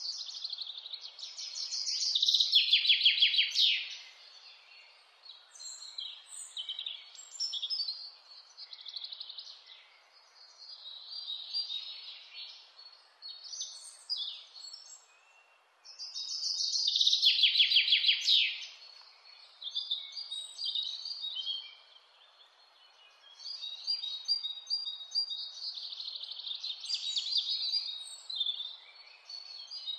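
Wild songbirds singing and chirping. A loud, rapid trilled phrase that falls in pitch comes twice, about fifteen seconds apart, over a faint steady hiss.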